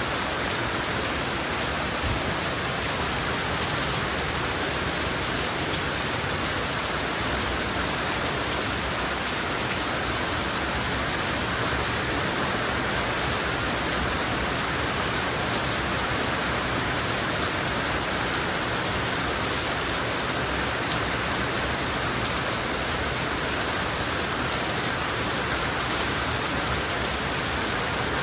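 Heavy rain pouring steadily: an even, unbroken hiss of falling water.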